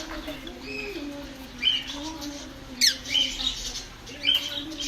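A crowd of caged aviary birds squawking and chirping, several calls overlapping, with a loud, sharp call that falls in pitch about three seconds in.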